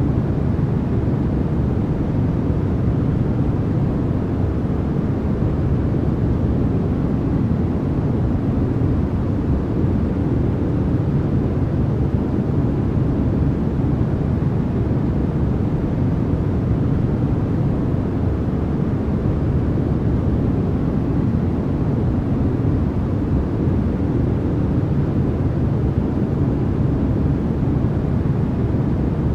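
Continuous electronically generated noise played as a sleep sound: an even, deep rushing hiss that stays the same throughout, heavier in the low end than in the highs.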